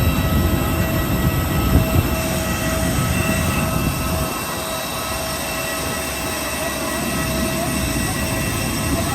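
Steady whine of a parked small passenger plane's engines, several even tones over a low rumble; the rumble eases about four seconds in.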